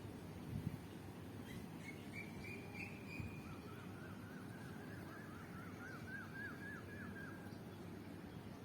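Bird calls over a steady low background rumble: a short thin call about a second and a half in, then a quick run of repeated chirping notes lasting about three and a half seconds. A brief low thump comes just after the start.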